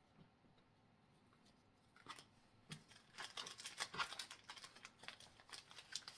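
Pokémon trading cards and foil booster packs being handled at close range: a quiet start, then about two seconds in a run of small, quick crinkles and clicks for several seconds.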